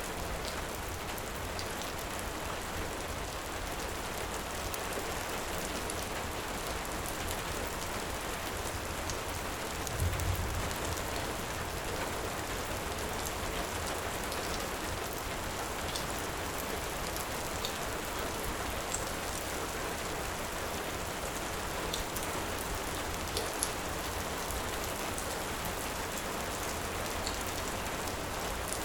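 Steady heavy rain, with scattered sharp crackles from a wood fire and one brief low thump about ten seconds in.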